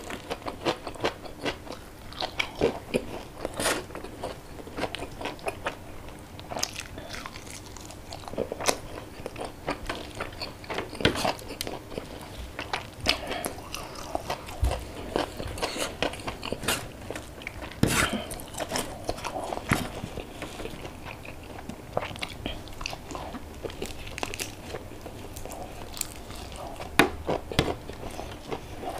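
Close-up eating sounds: a person chewing and biting crispy fried tilapia with rice, with irregular sharp crunches and clicks.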